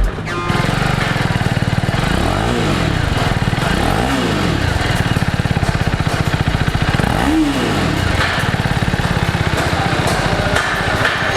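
TVS Apache RR 310's single-cylinder engine running, with the revs rising and falling back about four times.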